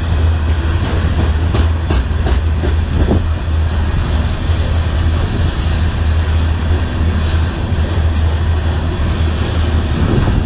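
Train rolling past close by on the BNSF main line: a loud, steady rumble of wheels on rail with a deep low hum, and a few sharp wheel clacks in the first few seconds.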